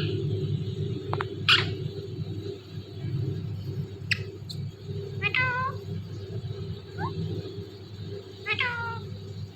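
Indian ringneck parrot imitating a cat's meow: two short meows that fall in pitch, about five and eight and a half seconds in, with a few sharp chirps between them, over a steady low hum.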